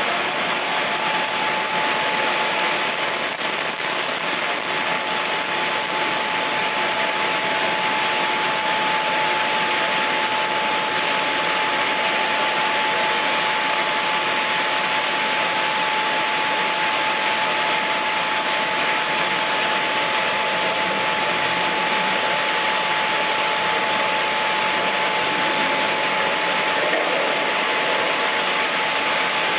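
Chainsaw running steadily at constant speed under load, the sound of a long cut along a log in a chainsaw mill.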